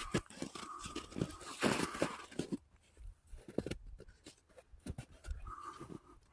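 Footsteps crunching and rustling on a woodland trail, busy for the first couple of seconds and then softer, scattered crunches.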